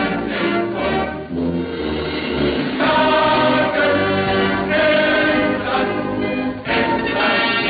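Period U-boat song: a choir singing with orchestral accompaniment.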